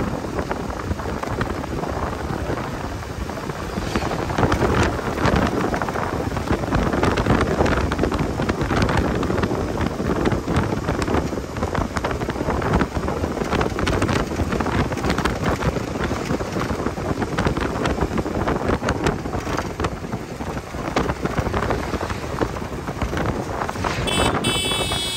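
Wind buffeting the microphone of a moving motorcycle, a steady rushing noise with road and engine sound underneath. Near the end a vehicle horn sounds briefly.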